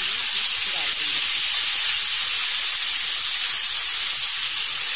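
Onion-tomato paste sizzling in hot oil in a kadai: a loud, steady hiss of frying, just after the wet paste hit the oil with the cumin.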